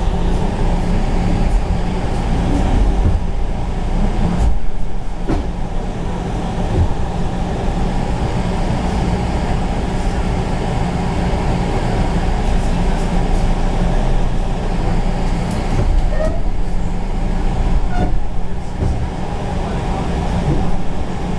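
Train running along the track: a steady, loud rumble of wheels on rails, with a few faint clicks.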